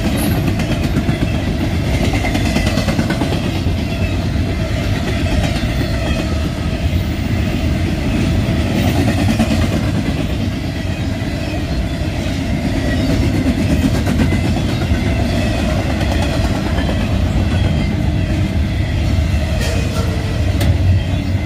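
Double-stack intermodal freight train passing close by: a steady, loud rumble and rattle of the well cars' steel wheels on the rails, with a few sharp clacks near the end.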